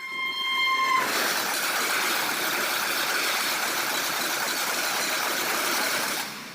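A train sounds a short, high horn note, then a loud, steady rushing noise starts abruptly about a second in as the train passes at speed. The rush ends about six seconds in and fades.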